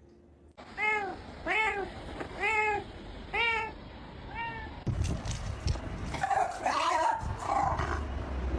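A domestic cat meowing five times in a row, about one short meow a second, each rising and then falling in pitch. About halfway through, a noisier stretch follows with a wavering, drawn-out cry.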